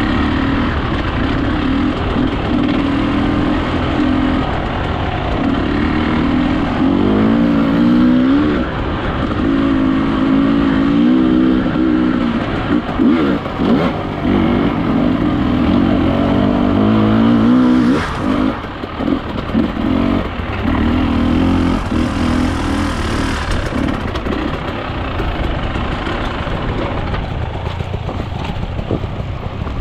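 Enduro dirt bike engine running under changing throttle, its pitch climbing and dropping again and again, cutting in and out in quick blips around the middle, then settling to a lower, steadier note in the last few seconds.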